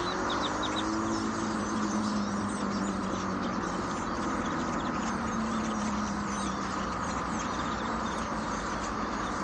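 Evening chorus of a large flock of birds, many calls chattering and chirping over one another without a break. Underneath runs a steady low engine hum.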